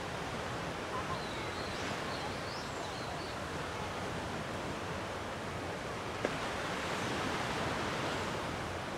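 Gentle sea waves washing against the shore in a steady hiss, one wave swelling a little louder after about seven seconds. A single sharp click comes just after six seconds.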